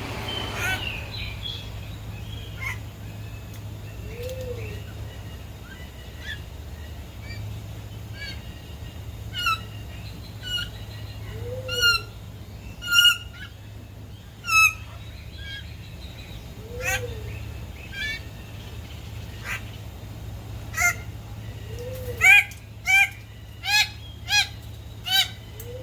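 Male Raggiana bird-of-paradise calling during its courtship display: loud, honking calls scattered through, then a run of five rapid calls near the end, over a steady low hum.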